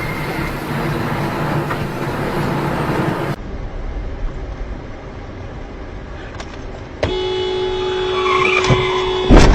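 Steady road noise, then after a cut a car horn is held down in one long steady blast starting about seven seconds in. Near the end a loud collision bang hits while the horn keeps sounding.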